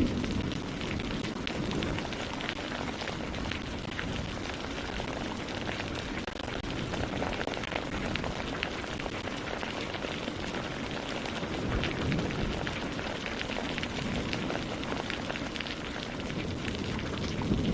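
Steady rain falling, an even hiss with a dense patter of drops, and a slight low swell about two-thirds of the way through.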